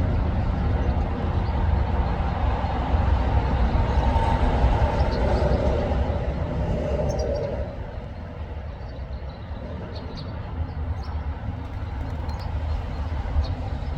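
Steady low rumble of outdoor background noise, like passing traffic, easing about eight seconds in. Faint, short, high chirps come through in the second half.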